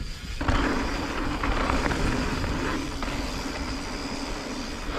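E-mountain bike running down a dirt singletrack: steady tyre and trail noise with low rumble from bumps, and a brief dip in level right at the start.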